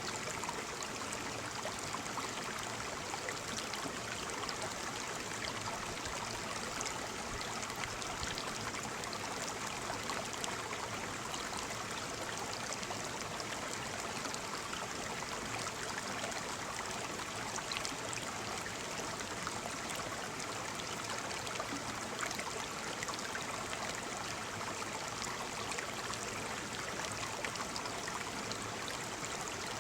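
Waterfall: falling water splashing in a steady, even rush with fine crackle and no change throughout.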